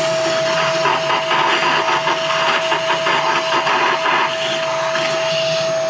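Electric motor running steadily with a constant whine over loud rushing air.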